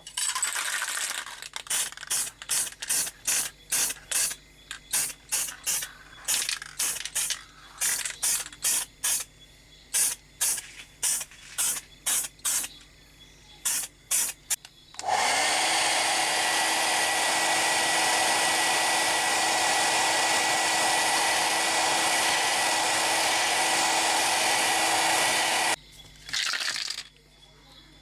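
A quick series of short rasping strokes, about two to three a second, typical of hand work on metal. Then a small power tool's motor spins up and runs steadily with a hiss for about ten seconds before cutting off, and the short strokes start again near the end.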